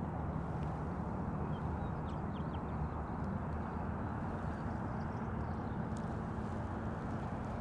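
Steady low engine-like rumble with a faint hum running under it, and a few faint, short bird chirps about two to three seconds in and again near six seconds.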